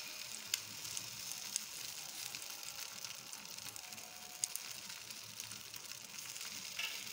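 Egg-dipped bread slice frying in a little oil in a nonstick pan: a steady soft sizzle with scattered small pops.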